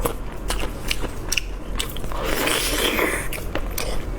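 Close-miked chewing and biting of food: a run of sharp crunches and wet clicks, with a denser stretch of crunching about two to three seconds in.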